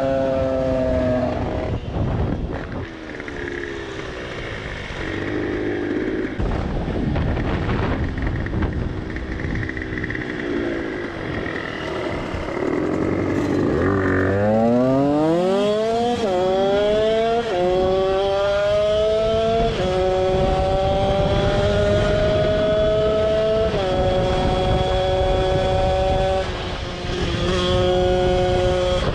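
Tuned two-stroke engine with a TPR 76cc cylinder kit, Mikuni 24 carburettor and DRP expansion-chamber exhaust. For the first half it runs at lower, uneven revs. About halfway through it pulls hard, its rising pitch dropping sharply several times as it goes up through the gears.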